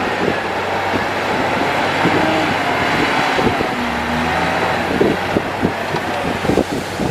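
Komatsu D58E crawler bulldozer working: its diesel engine runs steadily with a dense rumble, with irregular clanks and knocks from the tracks, more frequent in the second half, and a few short squeals.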